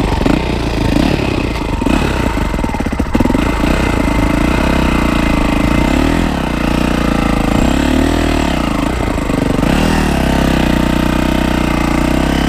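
Yamaha YZ450F dirt bike's four-stroke engine running at low revs, uneven and choppy for the first few seconds, then steadier, with the revs rising and falling in several throttle blips.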